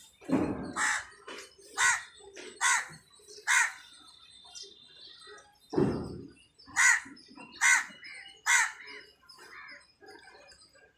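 A bird calling outdoors in two runs of short repeated calls, about one call a second, three or four calls per run. A short low, dull sound comes just before each run.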